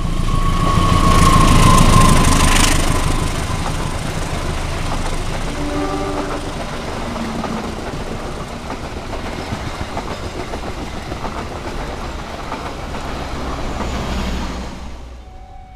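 Passenger train hauled by a diesel locomotive passing close by: the horn sounds over the first couple of seconds, dropping slightly in pitch as it goes by, then the coaches rumble and clatter past steadily, with a short toot about six seconds in. The rumble falls away near the end.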